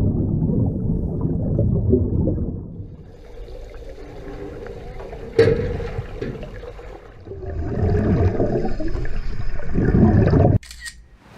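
Water splashing and sloshing around a kayak in uneven surges, with one sharp knock about five seconds in; the sound cuts off suddenly near the end.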